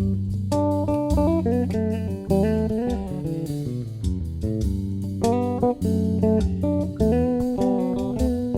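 Bass played as the lead instrument in a Northeastern Brazilian style: a run of plucked melody notes and chords over low held notes.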